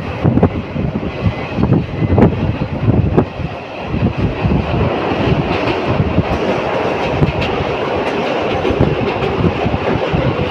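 Train running along the track, its wheels clattering over rail joints with a steady rumble. There are sharp clicks in the first few seconds, and the sound is steadier after that.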